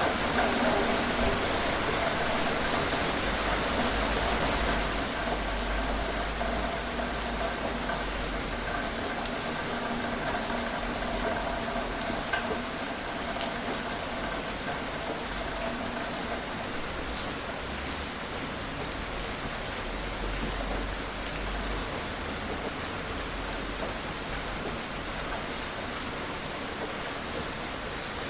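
Steady gentle rain falling on a surface, with scattered individual drops ticking. A faint steady hum sits under it through the first half or so.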